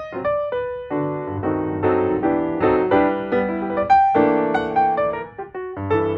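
Background piano music: a gentle tune of notes and chords.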